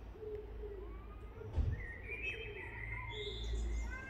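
Small birds chirping and singing in short whistled phrases, over a steady low rumble, with a brief knock about one and a half seconds in.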